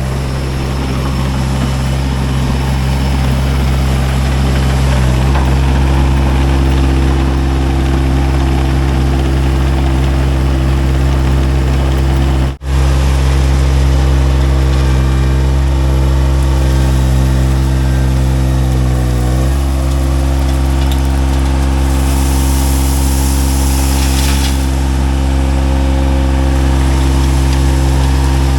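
Diesel engine of a Baumalight TRL620D mini skid steer running steadily. It dips slightly in pitch about nineteen seconds in, and a hiss joins it for about three seconds a little later.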